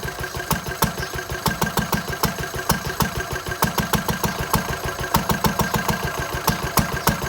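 Lister D single-cylinder stationary engine running at tick-over: a rapid, even beat with sharp ticks over it.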